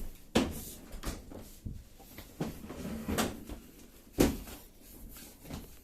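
Knocks, clunks and scraping of a dishwasher's metal cabinet being handled and tilted back, with several sharp bumps, the loudest about four seconds in.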